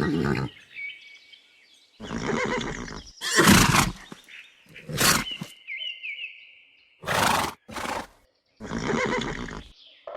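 A horse neighing in several separate calls with short pauses between them. One call a little past the middle carries a drawn-out, wavering high tone.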